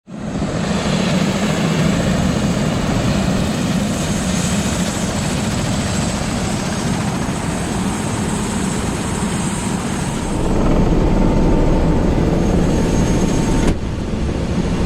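Helicopter in flight: a steady, loud rush of rotor and engine noise, shifting abruptly in level about two-thirds of the way through and again near the end.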